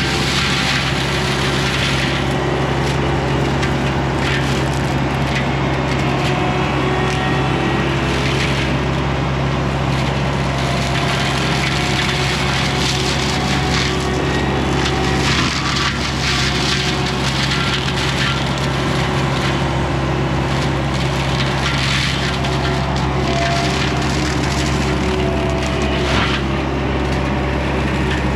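Forestry mulcher head shredding brush and wood, with crackling, splintering surges several times, over the steady run of the carrier machine's diesel engine and hydraulics.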